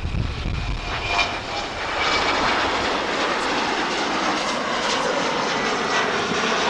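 Passing airliner's engines running loud, the noise building over the first two seconds and then holding steady.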